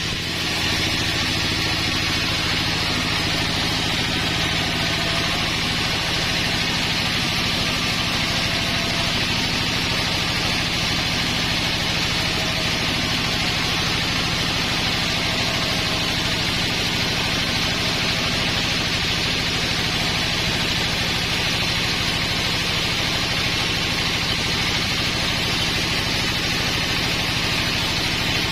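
Sawmill running steadily while sawing a large pine log: an engine hum under a continuous high hiss from the blade, at an even level throughout.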